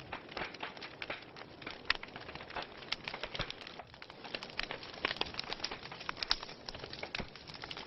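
Wood fire burning in a fireplace, crackling with many irregular sharp pops over a soft steady hiss.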